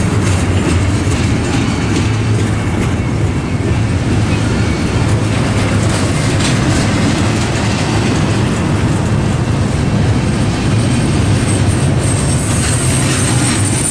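Double-stack intermodal freight train rolling past with a steady loud rumble and wheels clicking over rail joints. A high-pitched squeal comes in near the end.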